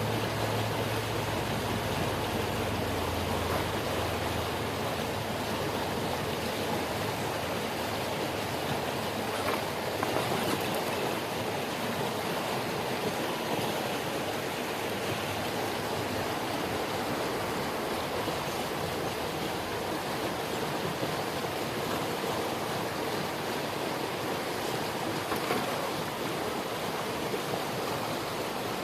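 Fast-running creek water rushing steadily over rocks. A low steady hum, like a motor, fades out in the first few seconds.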